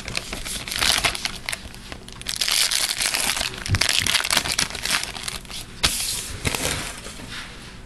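Crinkling and tearing of a trading-card pack wrapper as a hockey card pack is opened by hand, in uneven crackly spells, with cards shuffled between them.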